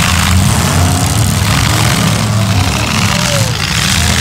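Several demolition derby cars' engines running together in the arena, a loud, steady low rumble.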